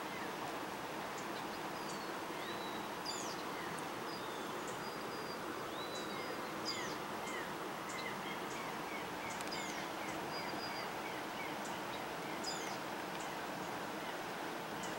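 Several birds calling over a steady hiss: scattered chirps and whistles, a few looping high calls, and, from about halfway in, a run of short falling notes repeated about twice a second.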